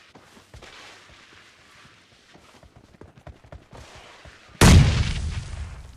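Video-game gunfire: faint soft ticks and shuffles, then a sudden loud gunshot blast about four and a half seconds in that rings out and fades over a second.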